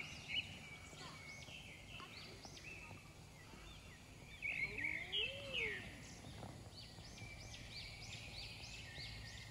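Several small birds singing in rapid, repeated chirps and short trills, over faint outdoor background noise. The chirping is loudest about halfway through.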